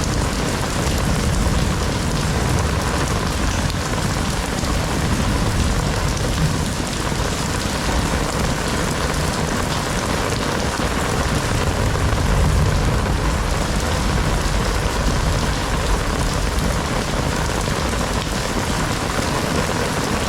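Heavy rain falling steadily, a dense even hiss of drops hitting the ground, with a deep low rumble underneath.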